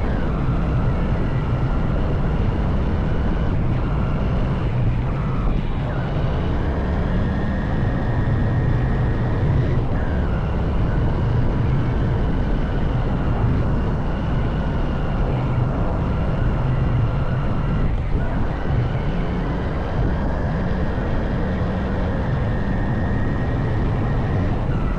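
Honda CB190R's single-cylinder engine running steadily under way, its note dipping and rising a few times as the revs change.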